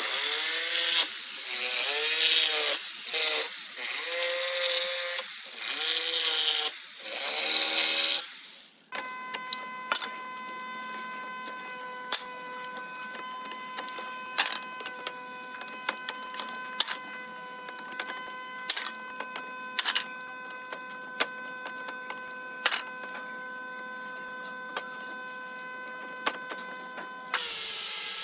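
Power tool working wood, its motor pitch dipping and recovering again and again under load. After about nine seconds it gives way to a quieter steady motor whine with scattered sharp clicks and knocks, and the sound changes abruptly again near the end.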